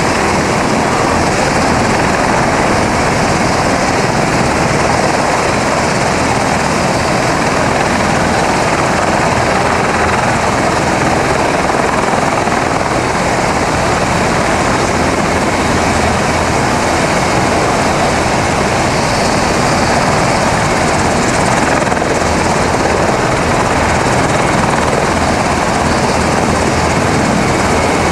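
Helicopter running nearby, a loud, steady noise of rotor and turbine that does not change.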